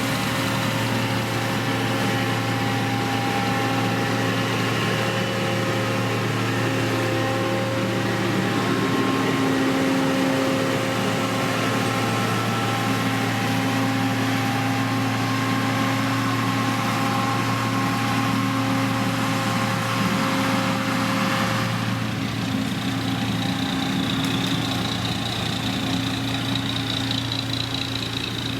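Diesel engine of heavy road-construction machinery running steadily. A thin, high, wavering whine joins it about three-quarters of the way through.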